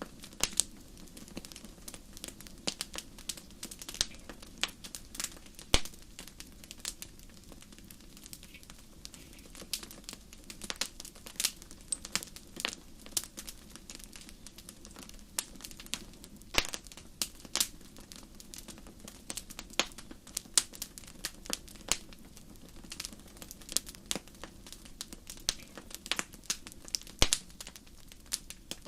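Wood fire crackling in a fireplace: frequent irregular sharp pops and snaps of burning firewood over a low steady rumble of the flames.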